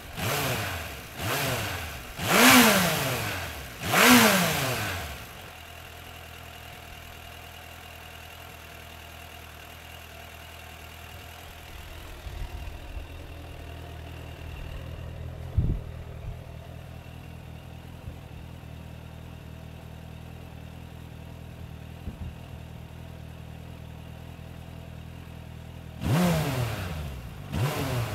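2003 Suzuki Bandit 1200's inline-four engine on its stock muffler, blipped four times in quick succession, then idling steadily with one sharp knock midway, and revved twice more near the end.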